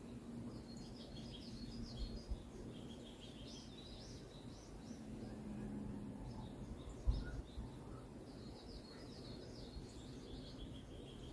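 Several songbirds chirping and twittering in quick high trills, one after another, over a steady low rumble of background noise. Two brief low thumps come about 2 and 7 seconds in.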